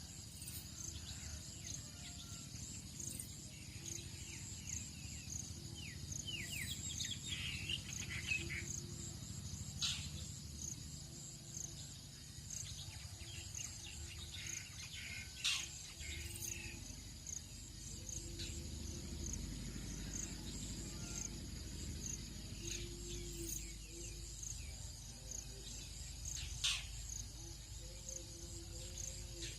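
Tropical dawn chorus: a steady high chirring of insects and crickets, with scattered short, sharp bird calls and a quick run of falling bird notes about seven seconds in. A low, even rumble sits underneath.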